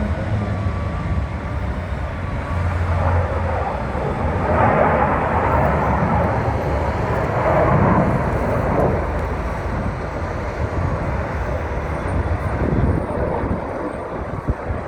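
Aircraft passing at an air show, its engine noise swelling from about four seconds in and easing off after about nine seconds.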